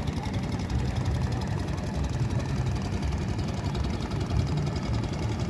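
Boat engine running steadily at low revs.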